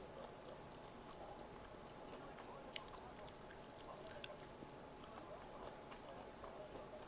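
Faint chewing of food, with a few sharp mouth or utensil clicks, over a steady low hum.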